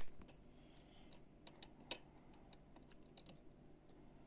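Small plastic Lego pieces clicking and tapping lightly as they are handled and sorted: a sharp click right at the start, then scattered faint clicks, one a little louder about two seconds in.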